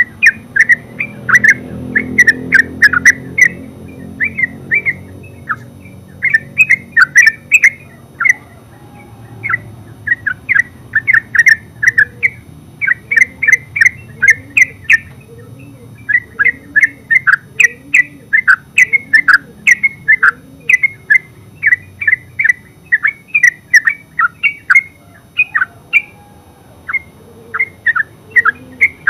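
Yellow-vented bulbul singing its full, rapid chattering song: short bursts of quick notes following one another with only brief pauses.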